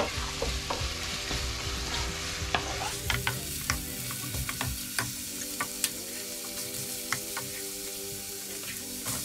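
Strips of ginger and garlic cloves frying in oil and margarine in a nonstick pan: a steady sizzle, with clicks and scrapes of a wooden spoon stirring against the pan, thickest in the middle of the stretch.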